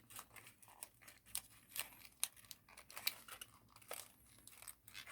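Origami paper being folded and pinched into shape by hand, giving faint, irregular crinkles and small ticks.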